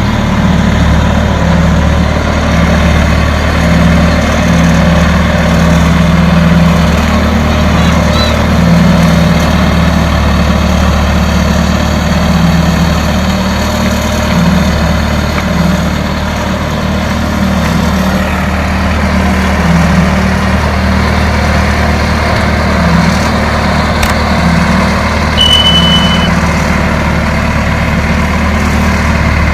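A heavy diesel engine running steadily at low revs, its drone shifting slightly up and down in pitch.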